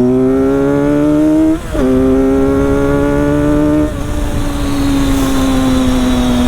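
Motorcycle engine accelerating in gear with rising pitch, a quick upshift about two seconds in, pulling again, then easing off to a steady, slowly falling drone about four seconds in. Wind rush runs underneath.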